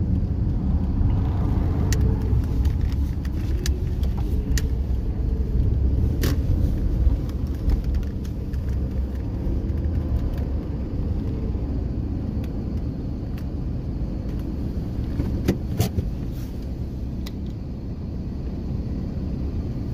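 Low, steady rumble of car engines and road traffic, with a few sharp light clicks or knocks.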